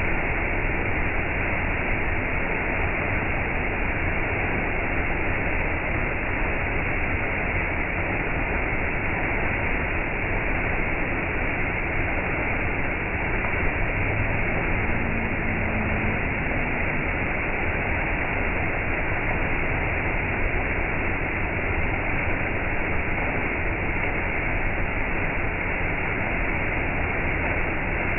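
Waterfall: water falling over rocks into a river with a steady, unbroken rushing that does not change.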